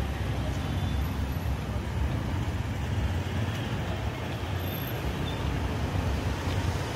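Street traffic noise: passing vehicles making a steady low rumble with a constant hiss above it.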